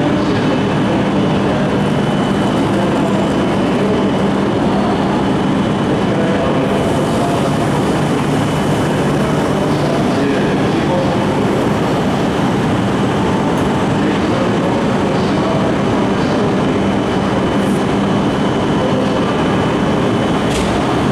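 E5 series Shinkansen trainset arriving at a station platform: a steady, continuous train noise with a low hum running underneath.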